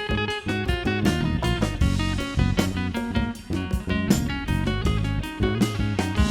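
Band playing an instrumental passage of a song: quickly picked guitar notes over a low bass line, with a steady beat.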